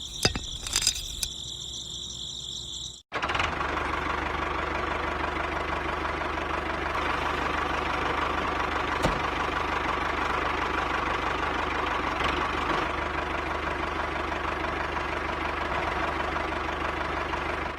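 A small motor running steadily. For the first three seconds it gives a high whine with a few clicks; then, after a sudden cut, a louder, rougher, even running sound.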